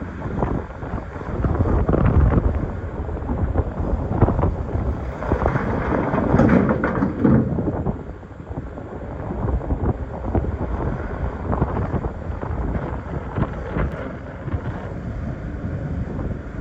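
Hydraulic excavator working: diesel engine running under load, with rocks scraping and knocking against the bucket, loudest about two seconds in and again around six to seven seconds in.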